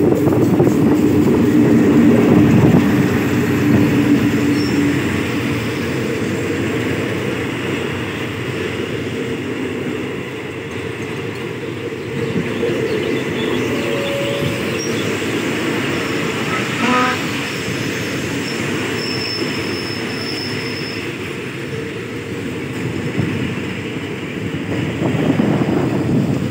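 GEA-class diesel-electric locomotive running past, its engine note loudest in the first few seconds. Then the passenger coaches roll by steadily as the train pulls in to stop, with a few short brake or wheel squeals in the second half.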